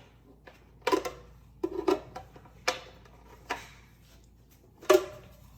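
Five sharp knocks and clatters of hard objects being handled and set down, spaced about a second apart, the last one the loudest.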